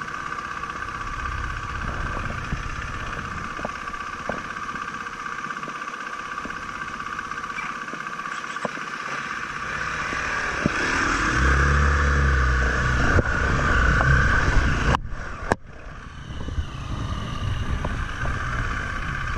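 Off-road motorcycle engines running at idle with a steady engine note. About eleven seconds in the engines are revved up and get louder as the bikes move off up the trail.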